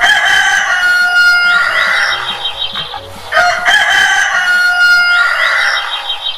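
Rooster crowing: the same long cock-a-doodle-doo played twice in a row, each crow lasting about three seconds.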